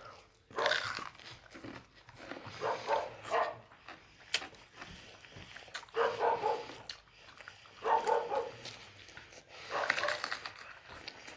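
A dog vocalising in short pitched bursts, about five over the stretch, a second or two apart.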